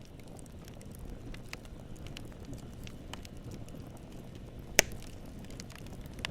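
Campfire burning: a steady low rumble of flame with scattered small crackles, and one sharp, much louder pop about three-quarters of the way through.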